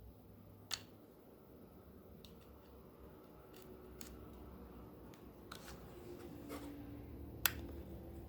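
Scattered sharp clicks of small hard plastic parts being handled and fitted together, about half a dozen, the loudest about seven and a half seconds in.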